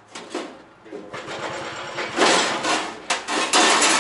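Loud metal rattling and scraping as the heater and its mounting plate are worked into place, starting about a second in and loudest in two stretches near the middle and near the end.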